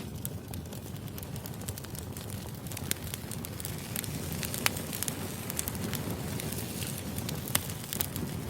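Firewood burning: a steady low rumble of flame with frequent irregular sharp crackles and pops.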